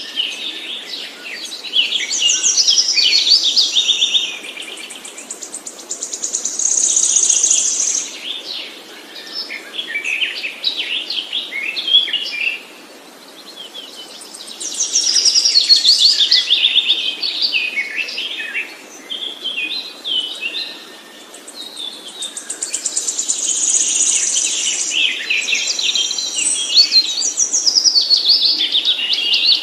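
Songbird singing long, rapid, varied phrases of chirps and trills, in bouts of several seconds with brief pauses between them.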